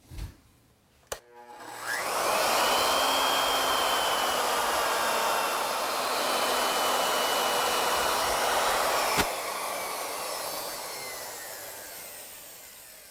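Woodworking router spinning up with a rising whine and running steadily as its surface planing bit is plunged to mill a flat on a round wooden turning. It is switched off with a click about nine seconds in, and the motor winds down with a slowly falling whine.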